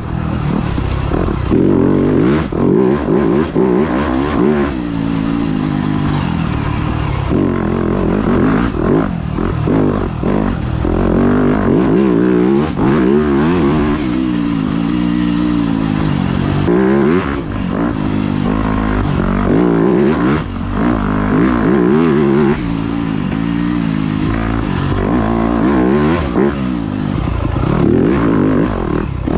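Dirt bike engine being ridden hard, revving up and easing off over and over, its pitch rising and falling every second or two, with clattering from the bike over rough ground.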